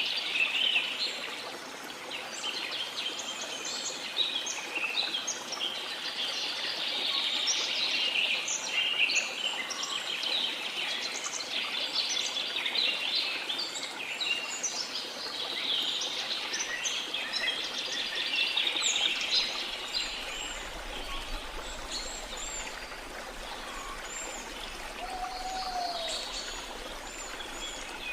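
Tropical rainforest ambience: many birds chirping and calling in a dense chorus over the steady rush of a waterfall, with a lower call twice near the end.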